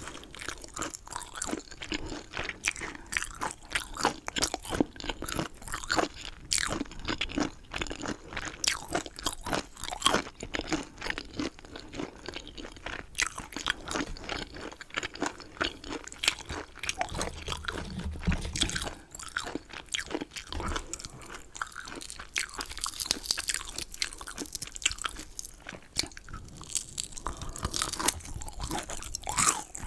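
Close-miked chewing of crunchy chicken: a continuous run of bites and crisp crunches, with a brief low rumble a little past halfway.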